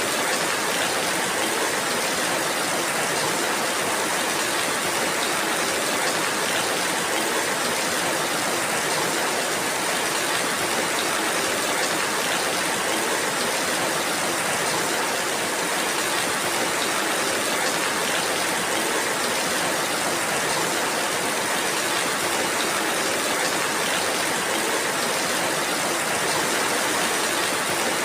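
Steady rainfall, an even hiss with no breaks or changes.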